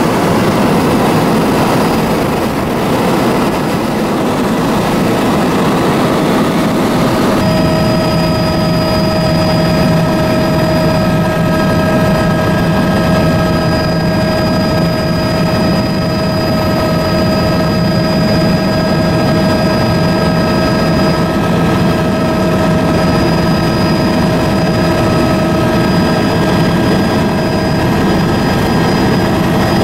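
Steady aircraft engine drone heard from on board, with a constant whine. It begins abruptly about seven seconds in, after a stretch of loud rushing noise.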